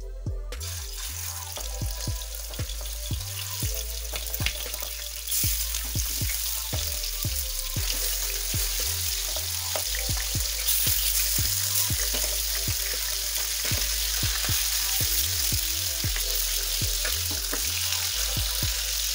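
Marinated chicken pieces sizzling and spitting in hot oil in a frying pan as they are laid in for shallow frying. The sizzle starts about half a second in and grows louder about five seconds in and again about eleven seconds in as more pieces go into the pan.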